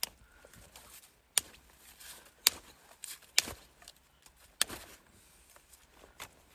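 A series of about six sharp knocks, unevenly spaced roughly a second apart.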